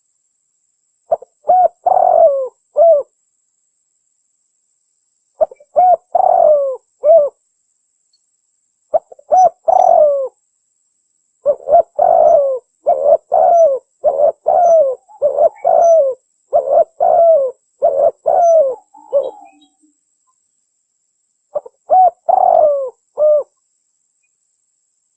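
Red turtle dove (terkukur merah) cooing in short phrases of three or four notes with pauses between them, and a longer unbroken run of coos in the middle; it is a lure call for trapping the bird.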